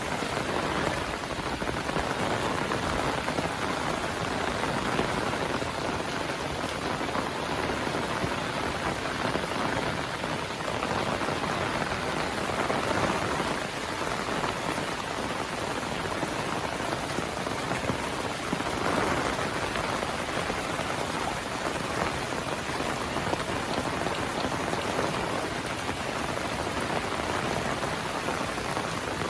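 Heavy monsoon rain falling steadily, a dense patter of drops on the ground and surfaces, even and unbroken.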